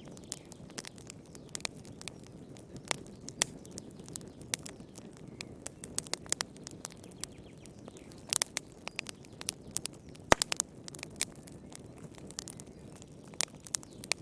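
Wood campfire crackling, with irregular sharp pops and snaps over a steady low hiss of the burning logs; the loudest pop comes about ten seconds in.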